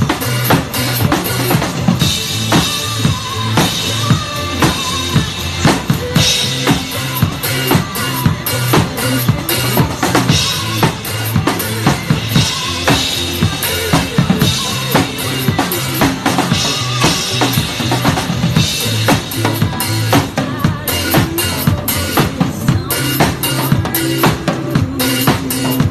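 Drum kit played to a recorded backing track: bass drum and snare keep a steady driving beat under dense cymbal strokes, over the track's sustained bass line.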